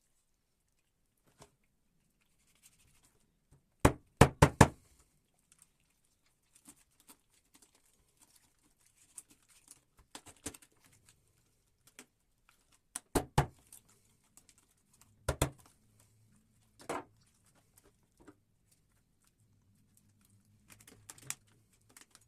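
Sharp knocks and clicks of hard objects being handled: a quick cluster of four or five strikes about four seconds in, then a few shorter clusters later, with faint rustling between.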